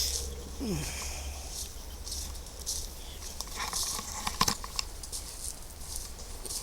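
Footsteps on a woodland path: irregular crunches and snaps of leaves and twigs underfoot, with a louder cluster about four and a half seconds in.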